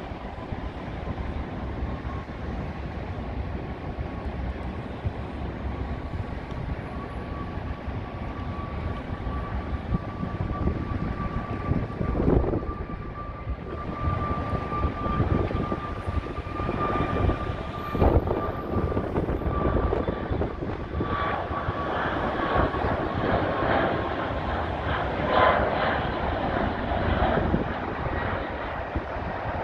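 Boeing 737 MAX 8's CFM LEAP-1B turbofan engines at takeoff power: a steady jet rumble that grows louder, with a high fan whine that climbs slightly, then drops in pitch toward the end as the jet passes.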